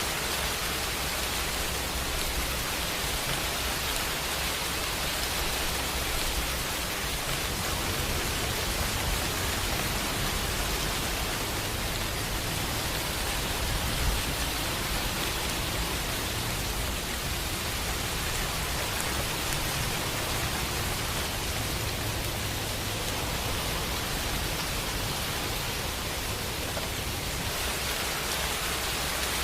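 Steady heavy rain, an even hiss of falling drops with a low rumble underneath that swells and fades slowly.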